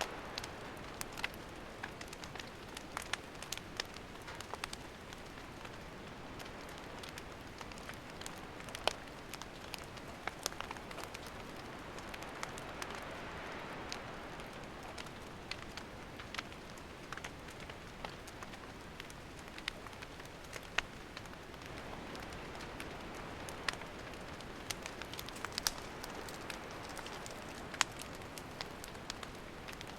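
Wood campfire burning: a steady hiss of flames with frequent sharp, irregular crackles and pops from the burning firewood.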